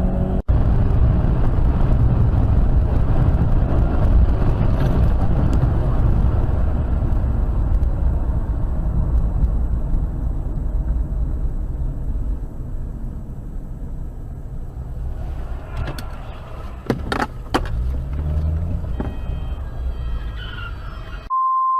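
Car cabin road noise and engine rumble from a driving car, with a few sharp clicks about two-thirds of the way through. Near the end the sound cuts to a single steady high beep, a censor bleep.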